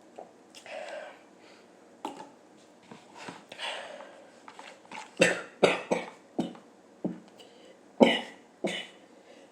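A person coughing in short, sharp fits: a quick run of four coughs about five seconds in, then two more near the end, with softer breaths and throat sounds before them.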